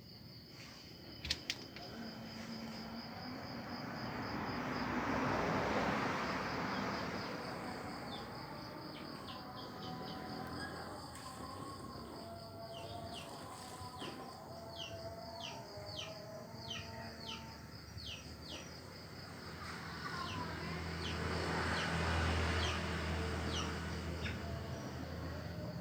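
Outdoor ambience: a steady high insect trill with repeated short bird chirps. Twice, a swell of rushing noise rises and fades over a few seconds.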